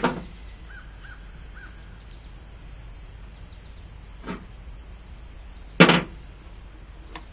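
Crickets chirring steadily in the background, broken by a few short knocks and clicks. The loudest is one sharp, brief sound just before six seconds in.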